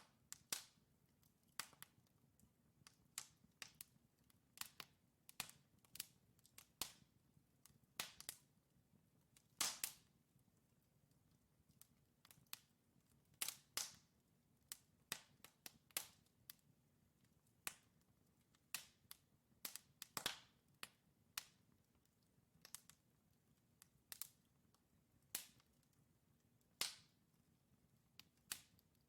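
Wood fire crackling: burning logs give off irregular sharp pops and snaps, sometimes in quick clusters, over a very quiet background.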